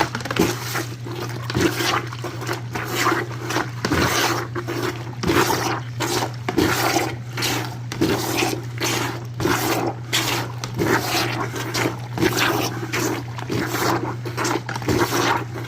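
Soapy water sloshing in a washOTG portable washing machine as its hand plunger is pumped up and down in quick repeated strokes.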